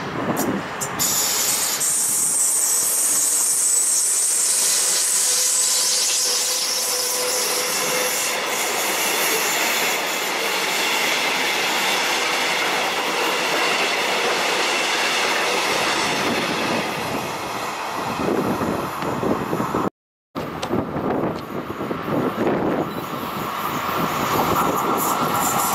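A double-deck passenger train rolls past close by: a steady rush and rattle of wheels on rail with high, thin wheel squeal. The sound cuts out suddenly for a moment about 20 seconds in. After that the rumble of another train starts up and grows louder toward the end.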